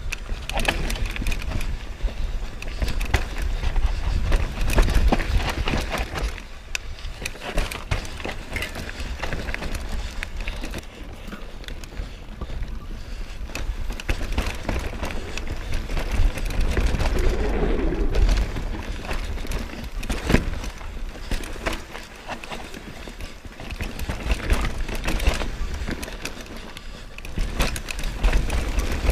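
Mountain bike riding down a rocky trail: tyres rolling over rock and dirt with frequent clattering knocks from the bike, over a constant low rumble.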